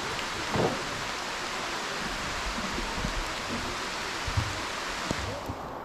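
Steady hiss of heavy rain and rushing waterfall water, with a few dull thumps. The higher part of the hiss drops away near the end.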